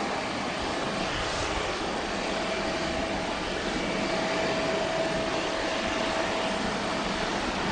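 Jet engine noise from an Airbus A350-900's Rolls-Royce Trent XWB turbofans: a steady rush, with a thin steady whine coming in about two seconds in.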